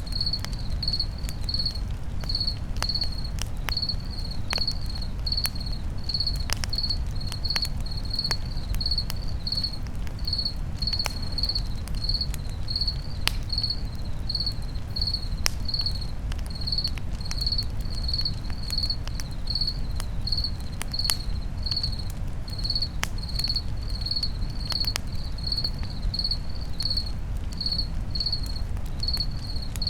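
A cricket chirping steadily, about two short high chirps a second, over the scattered pops and crackles of a campfire and a low steady rumble.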